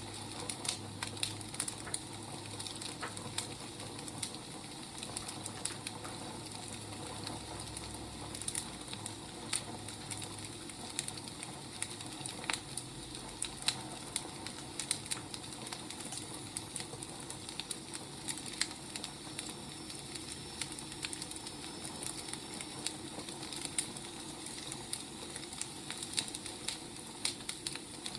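Burning firewood crackling: irregular sharp pops and snaps over a steady soft hiss.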